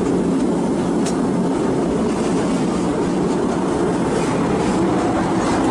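Steady rolling rumble of a steam train's passenger car running along the track, heard from aboard the moving train.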